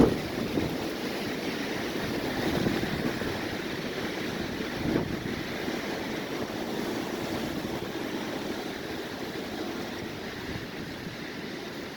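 Strong wind blowing in gusts and buffeting the microphone, a steady rushing with a few brief low swells.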